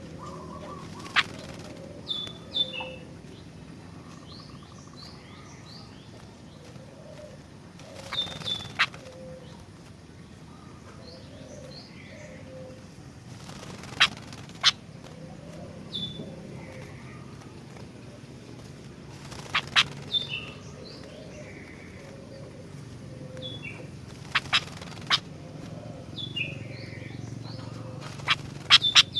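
Sooty-headed bulbul (kutilang) calling in short, sharp bursts every few seconds. Fainter quick chirps and a steady low hum run underneath.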